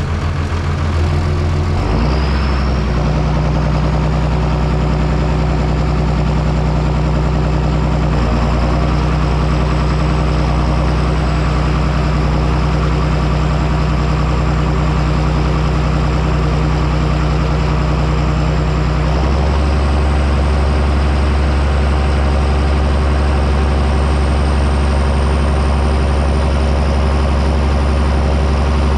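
A John Deere 6630 Premium tractor's six-cylinder diesel runs steadily while plowing. A high whine rises about two seconds in, and the engine note shifts about two-thirds of the way through.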